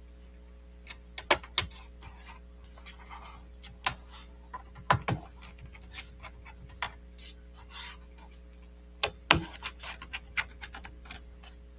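Irregular small clicks, ticks and scrapes of a small screwdriver turning screws into a 2010 MacBook Pro's aluminium bottom case, with a few louder knocks from handling the laptop and tools.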